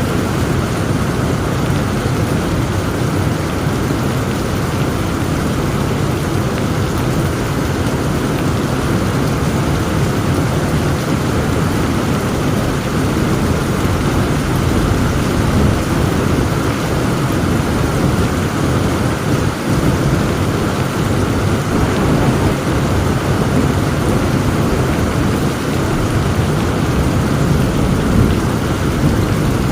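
Heavy rain falling steadily with a continuous low rumble of thunder.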